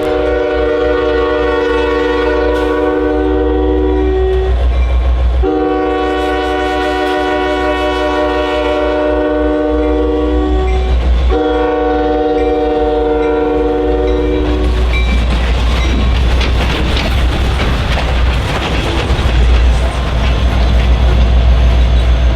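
Norfolk Southern freight locomotive's multi-chime air horn sounding three long blasts, over the heavy rumble of the diesel and train. After the horn stops a little past halfway, the train keeps rumbling past with wheels clacking on the rails.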